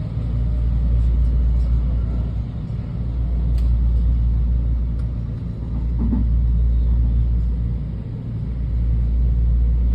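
Moving passenger train rumbling steadily, with a few faint clicks and brief dips in level.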